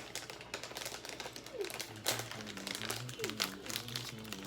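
Plastic snack wrapper crinkling in the hands, with irregular crackles throughout.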